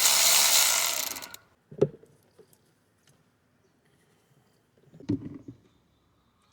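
Hand ratchet wrench working a bolt, a loud rasping burst for over a second, then a single sharp metallic click and a few clunks of tools and parts near the end.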